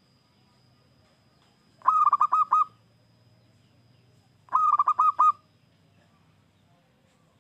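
Zebra dove (perkutut) cooing: two phrases, each a quick run of five or six rolling coo notes, about two and a half seconds apart.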